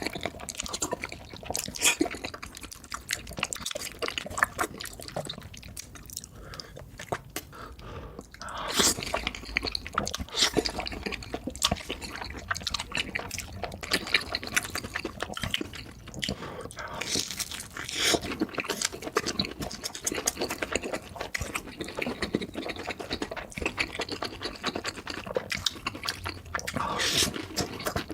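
Close-miked chewing and wet mouth smacks of someone eating, a steady run of quick clicks and squelches, sped up to double speed.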